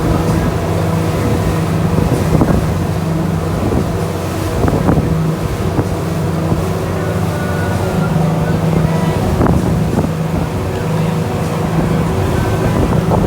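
Tour boat's engine running steadily at speed, with wind buffeting the microphone. A few sharp knocks come through, about 2.5, 5 and 9.5 seconds in.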